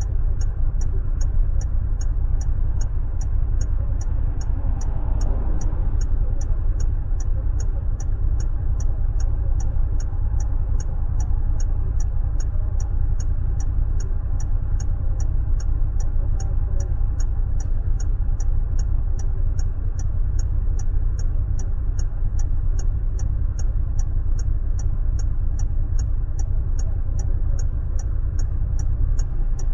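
Car running, a steady low rumble heard from inside the cabin, with the indicator relay ticking evenly about twice a second throughout.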